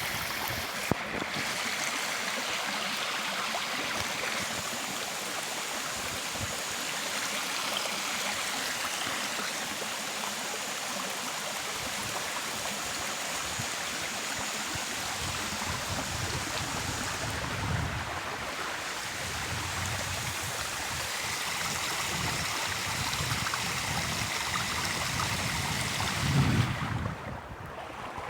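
Stream water running, a steady rushing flow. Near the end a brief low thump rises above it.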